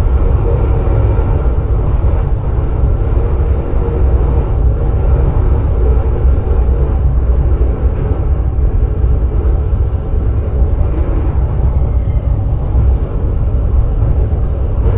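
Steady low rumble and running noise of an NS Sprinter electric train travelling along the track, heard from inside the driver's cab.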